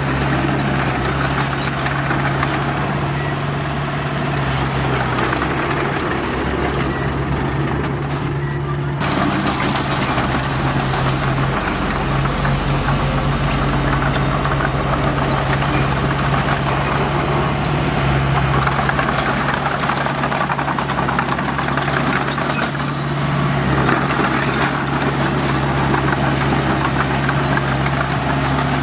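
Heavy diesel engine of earth-moving machinery running steadily with a constant low drone, with a brief change in the upper noise about nine seconds in.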